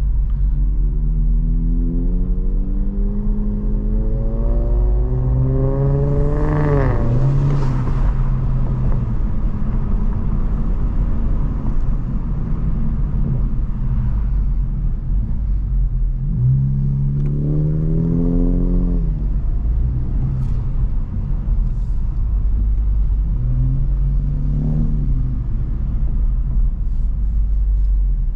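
Honda Civic Type R's 2.0-litre turbocharged four-cylinder accelerating hard, heard from the cabin: the engine note climbs steadily for about six seconds, then drops at an upshift with a brief rush of air. Two more pulls follow, a second climb about 16 s in and a short one near 24 s, over steady road rumble.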